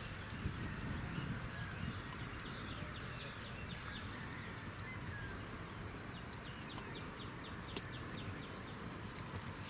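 Small birds chirping: a quick run of short, high chirps through the middle of the stretch, over a steady low rumble.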